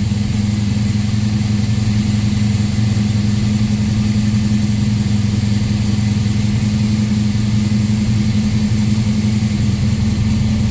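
A 1969 Camaro Z/28's DZ 302 small-block V8 idling steadily, its engine still cold just after a cold start in freezing weather.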